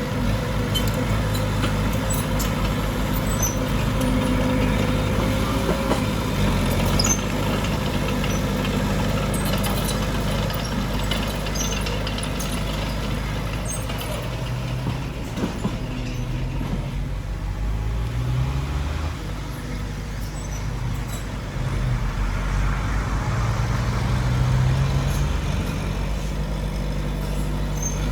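Diesel engines of heavy earthmoving machinery running steadily, revving up twice in the second half with the engine note rising and falling.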